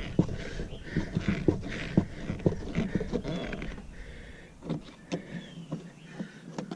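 Irregular clicks and knocks from handling the truck door and its newly fitted door handle, over a low rumble that drops away about four and a half seconds in.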